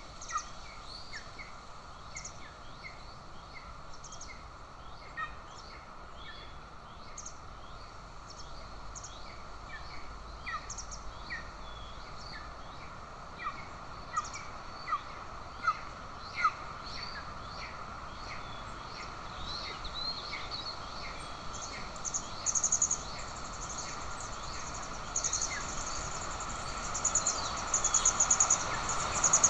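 Birds calling with many short, sharp chirps over a steady outdoor hiss. Near the end a fast, high, pulsing trill comes in and grows louder.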